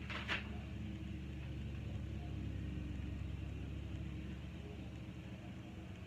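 A steady low engine hum, with a brief click just after the start.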